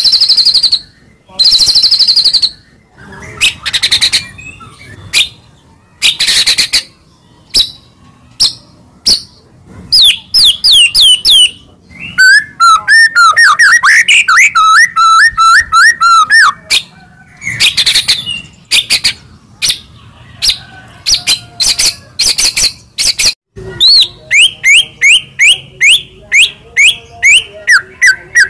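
White-rumped shama (murai batu) in full song: loud, sharp separate calls at first, then fast runs of quick whistled notes and rippling trills from about ten seconds in.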